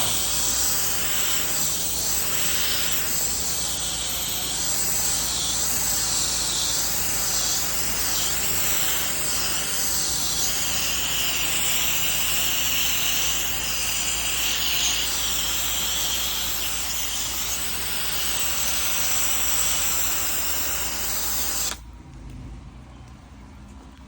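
Pressure washer wand spraying a steady hissing jet of water, cutting off suddenly near the end.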